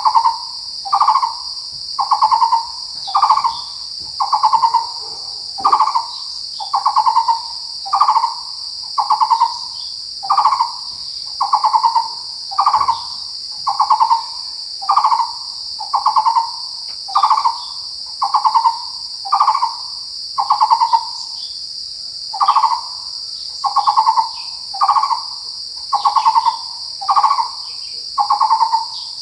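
Taiwan barbet calling a steady series of low, hollow pulsed notes, about one a second, with a short pause about two-thirds of the way through. A continuous high insect buzz runs underneath.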